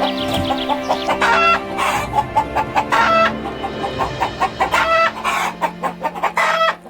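Repeated short animal calls, several a second, over steady background music.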